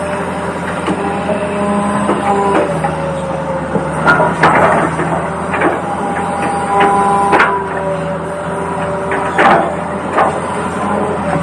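Toy RC excavator's small electric motors whining in on-off stretches, changing pitch as different functions run, with a steady low hum and several sharp plastic clatters and knocks.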